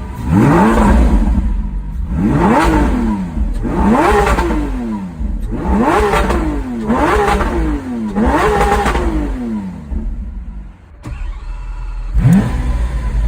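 Lamborghini Aventador's naturally aspirated V12 being revved from idle in repeated blips: six revs in about nine seconds, each rising sharply and falling back more slowly. After a short lull, one more rev comes near the end.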